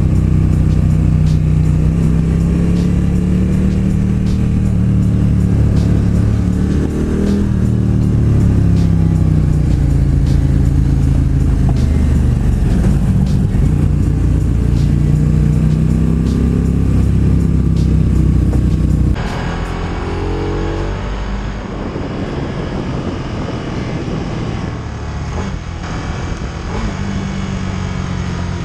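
Motorcycle engine running under way, its revs rising and falling with throttle and gear changes, over wind and road noise. About two-thirds of the way through the sound cuts to a quieter recording of a motorcycle engine at lower, steadier revs.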